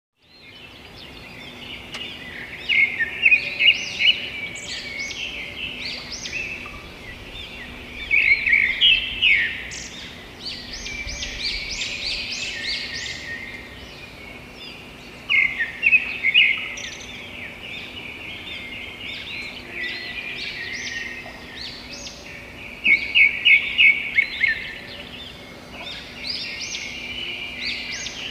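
A chorus of small birds singing and chirping, broken four times by loud bursts of rapid repeated notes, over a faint steady low hum.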